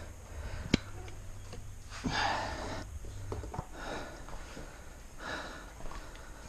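A man breathing heavily and exhaling with effort as he works, with one sharp click about a second in and a steady low hum underneath.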